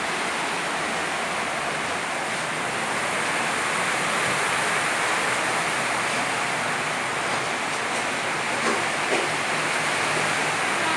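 Heavy rain falling steadily: an even, unbroken hiss, with a few faint drips or ticks near the end.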